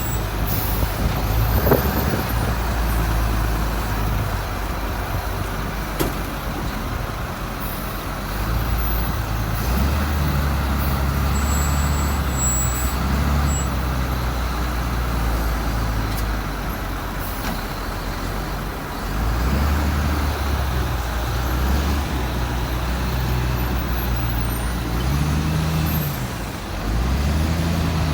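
Heavy diesel engine of a wheel loader working, revving up and easing off several times as it loads a dump truck, with the truck's diesel running alongside.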